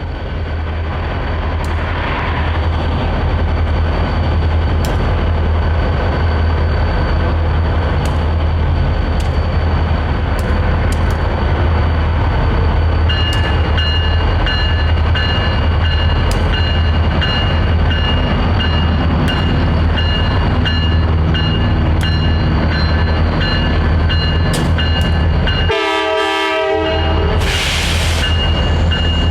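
Louisville & Indiana EMD six-axle diesel locomotives running by with a loud, steady engine drone. A steady high ringing tone joins about halfway, and a short horn blast sounds near the end.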